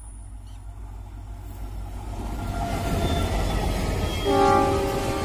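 Passenger train approaching and passing close by, its rumble and wheel noise growing steadily louder, with one short blast of the locomotive's horn near the end.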